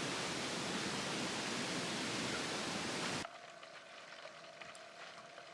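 Steady, dense rushing of falling water, like heavy rain or a cascade. It cuts off abruptly about three seconds in, leaving a quiet background with a few faint clicks and a low hum.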